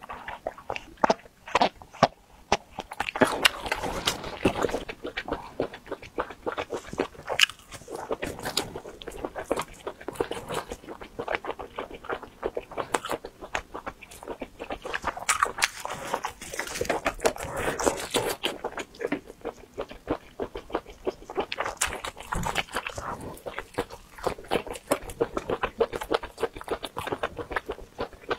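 Close-miked chewing and crunching of spice-coated fried gluten skewers (zha mianjin): a dense, irregular run of crisp bites and chewing clicks.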